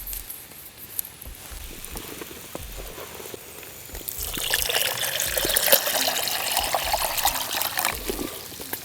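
Water pouring, starting about four seconds in and running for about four seconds, after a few faint clicks.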